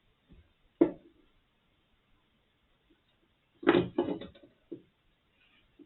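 Handling knocks and clicks as the opened sound level meter's circuit boards and parts are picked up and set down on a bench. There is one sharp knock just under a second in, then a quick cluster of several knocks about four seconds in and one more soon after.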